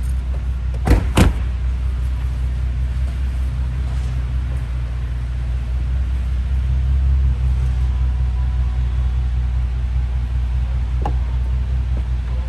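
Bentley Continental GTC Speed's 6.0-litre twin-turbo W12 idling steadily, with two sharp door-shut thumps about a second in. A faint steady whine joins about eight seconds in.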